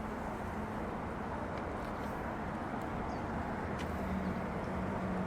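Steady low background rumble with a faint hum, and a few light clicks.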